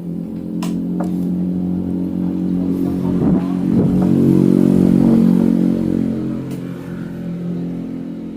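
A motorcycle engine running at a fairly steady pitch. It grows louder to a peak about five seconds in, then fades.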